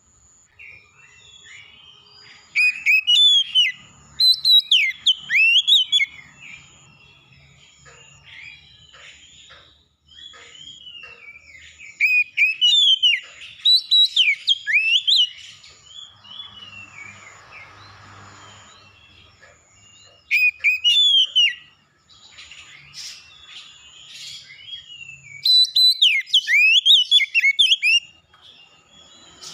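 Songbird singing in loud spells of rapid, varied whistled phrases and chirps, four spells of a few seconds each, with quieter calls between them and a faint high pulsing note behind.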